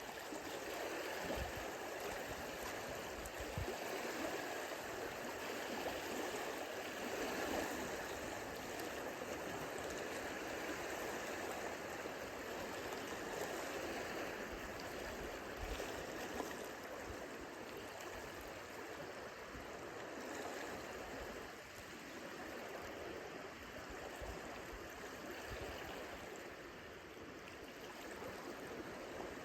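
Small lake waves lapping and washing against the shoreline: a continuous rush of water that swells and eases.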